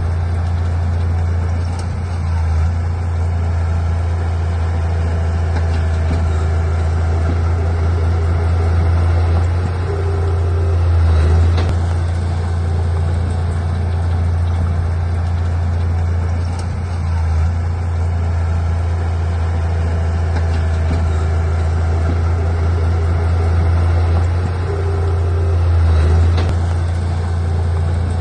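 Heavy diesel engine of earthmoving equipment running with a steady low drone, swelling in level several times.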